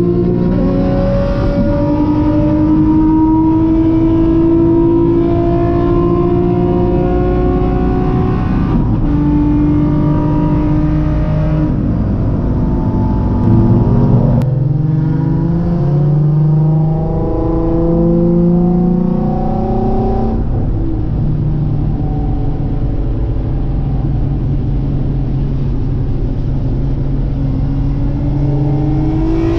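Nissan 350Z's VQ35 V6 engine pulling hard under acceleration: its pitch climbs steadily, then drops sharply at each of several upshifts, about 9, 12, 14 and 20 seconds in.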